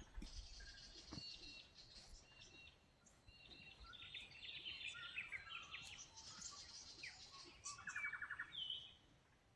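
Several Australian birds calling and singing faintly in a dawn-chorus mix of short chirps and whistles, with a quick rapid trill near the end.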